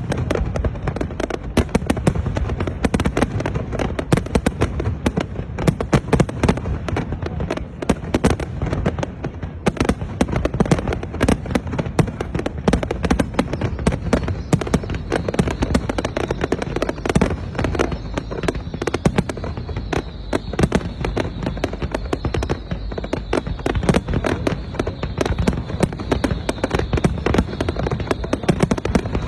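Fireworks display going off continuously: a dense, unbroken run of bangs and crackling bursts.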